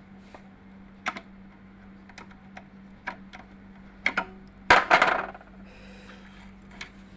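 Small metallic clicks and clatter from a Janome 393 sewing machine being handled and worked by hand. A few light ticks come first, then a sharper click about four seconds in and the loudest clatter just before five seconds.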